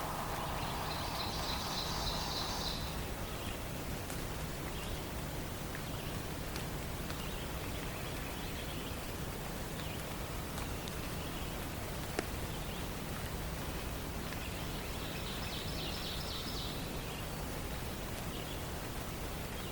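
Dawn forest ambience: a steady background hiss with a songbird singing a short, rapid, high trill twice, once at the start and again about fifteen seconds in.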